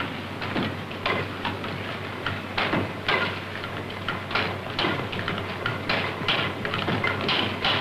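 Diesel's early experimental engine being turned over by a drive belt rather than under its own power, clattering with irregular mechanical clicks and knocks over a steady low hum.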